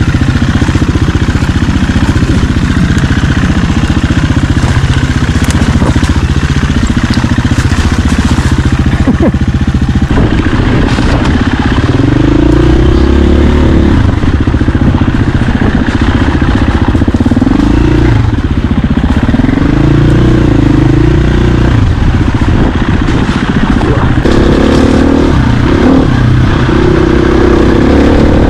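Dirt bike engine running loud and steady; from about halfway through, the revs rise and fall again and again.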